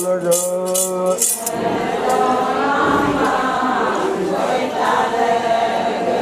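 Call-and-response Ponung chant. A single voice holds a long sung note over the quick shaking of a rattle for about the first second. Then a group of voices comes in, singing together until the end.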